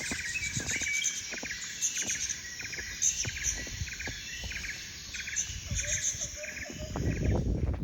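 Small birds chirping over and over in quick short notes, with a louder low rumble near the end.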